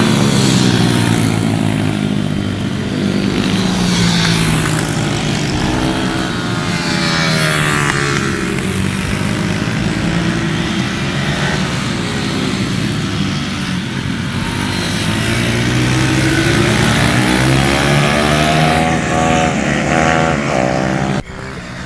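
Pit bike engine being ridden hard, revving up and falling back again and again as the throttle opens and closes through the gears. The sound drops off suddenly near the end.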